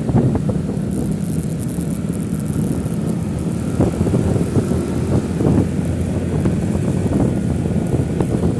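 A road vehicle driving, its engine and road noise a steady low rumble.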